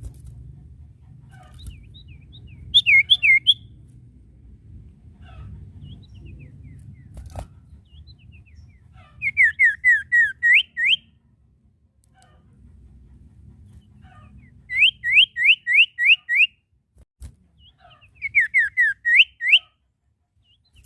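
Common iora (sirtu) singing: four bouts of quick, repeated whistled notes, each bout lasting about a second or two, with pauses between them.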